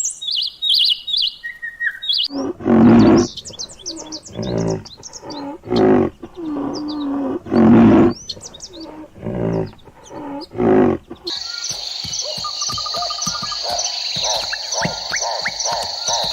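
A string of animal calls: high bird chirps for about two seconds, then a series of loud, deep roar-like calls repeated every second or two, then a steady high shrill trill with rhythmic ticking near the end.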